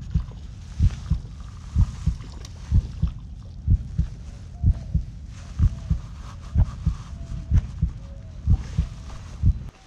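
Dull, evenly spaced thumps on the microphone about once a second, in rhythm with a fishing reel being cranked to bring in a hooked rainbow trout.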